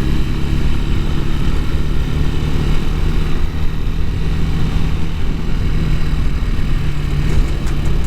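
Bashan Brozz 250 dual-sport motorcycle engine running at a steady, even speed with a low drone.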